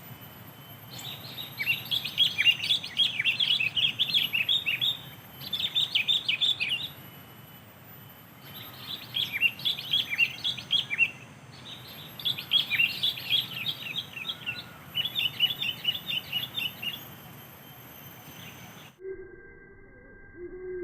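Sooty-headed bulbuls (kutilang) chirping in repeated bursts of quick, sharp notes, several bursts a few seconds apart. The birdsong breaks off abruptly near the end.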